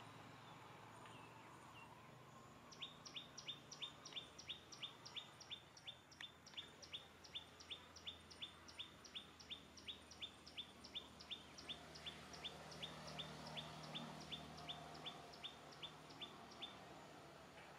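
A bird calling one short, high chirp over and over, about three times a second, starting about three seconds in and stopping shortly before the end. The chirps are faint.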